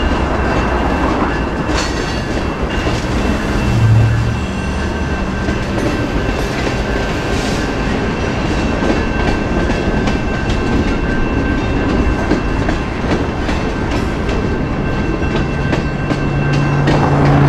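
Freight train of hopper cars and a centerbeam flatcar rolling through a grade crossing: steady wheel rumble with the clickety-clack of wheels over rail joints. The crossing's electronic bell rings steadily under it, fading out near the end, and a car passes briefly about four seconds in.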